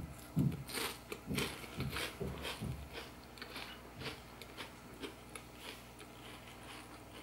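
Crisp crunching of a person chewing a mouthful of crispy tahini and walnut phyllo roll, about two crunches a second that grow sparser and fainter after the first few seconds.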